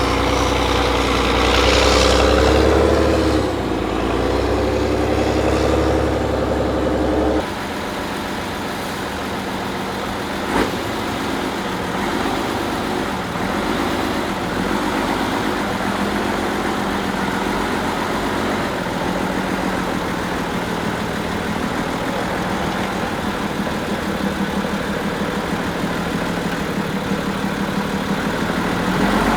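Diesel engine of a 6x6 Praga V3S off-road trial truck, revving up and down under load. About seven seconds in it changes abruptly to lower, steadier running with small rises in revs, and a single sharp knock is heard a few seconds later.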